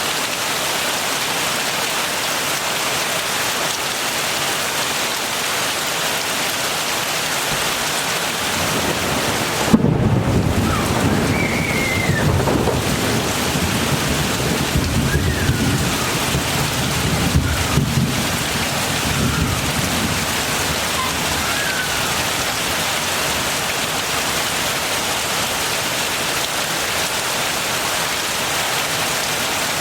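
Steady heavy rain falling. About ten seconds in, a sharp thunderclap breaks into rolling thunder that rumbles for about ten seconds before fading back under the rain.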